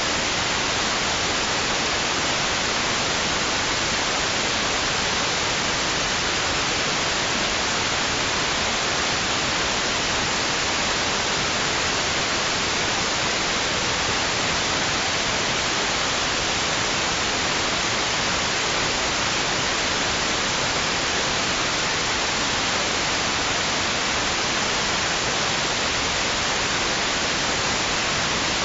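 Steady white noise: an even, unchanging hiss, strongest in the treble, with no rise and fall of waves.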